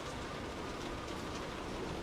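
Steady rain falling on and around a car, an even hiss of drops with faint individual drop ticks and a low rumble beneath.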